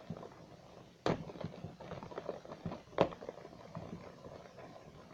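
Packaging being handled as a model airliner's fuselage is taken out of its box: small crackling rustles with two sharp knocks, about a second in and about three seconds in.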